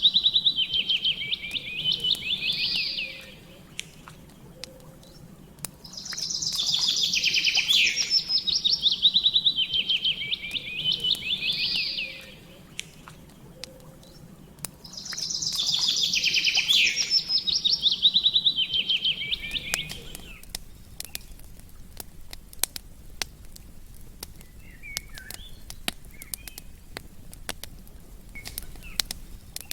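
A songbird singing three long phrases, each a few seconds of rapid high trilled notes with a rising flourish at the end. A campfire crackles with small pops throughout. After the third phrase only the crackling remains, with a couple of faint chirps near the end.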